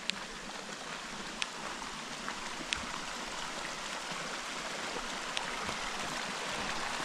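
A small spring-fed stream flowing and trickling near the lip of a waterfall, growing slowly louder, with a few sharp clicks.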